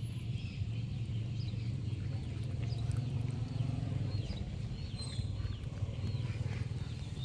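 Small birds chirping now and then, short high calls over a steady low rumble.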